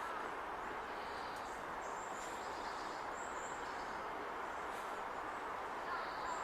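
Steady background hum, like distant traffic, with a few short, thin, high-pitched bird calls over it about two, three and six seconds in.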